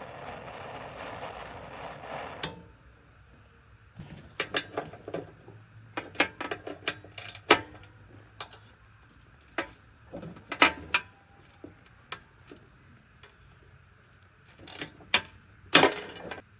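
A torch hisses steadily and cuts off after about two and a half seconds. Then a socket ratchet clicks in short, irregular runs, with a few louder metallic clanks, as it works on a torch-heated seized bolt.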